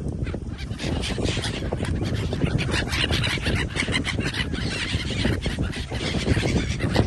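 A flock of geese honking, many calls overlapping one another without a break.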